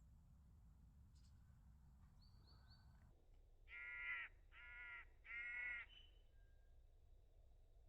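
Willow tit giving its harsh, nasal 'tchay' call three times in quick succession, about four seconds in, with three brief thin high notes just before.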